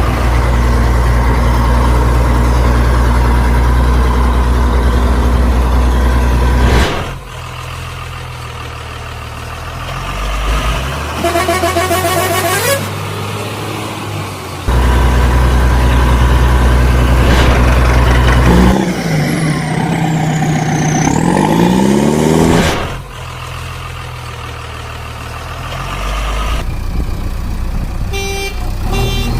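Heavy truck engine running with a low drone that eases off and comes back several times. A horn sounds about eleven seconds in, and a tone slides down and back up about twenty seconds in.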